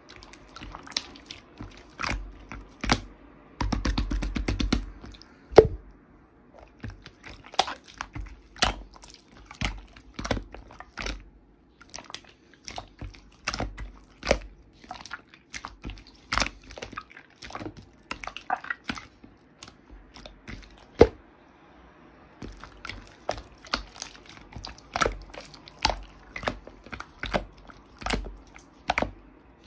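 Hands squishing, poking and stretching slime, making irregular sticky pops and clicks, with a denser run of crackling about four seconds in.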